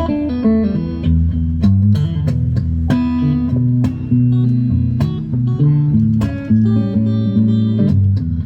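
Epiphone Emperor Swingster archtop hollow-body electric guitar being played: strummed jazz-style chords ringing out several times, with short runs of single notes in between.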